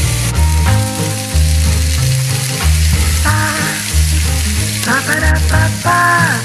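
Chicken and vegetable skewers sizzling in oil on a ridged grill pan over high heat, a steady hiss under background music with a bass line.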